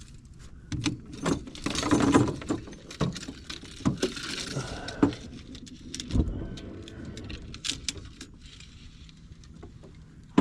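Fishing gear being handled in a boat: irregular clicks and rattles, with a heavier low knock about six seconds in.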